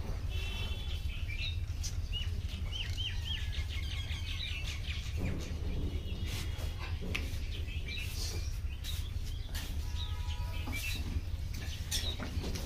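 Birds chirping, a quick run of short rising chirps a couple of seconds in and other short calls later, over a steady low rumble, with scattered sharp clicks and knocks.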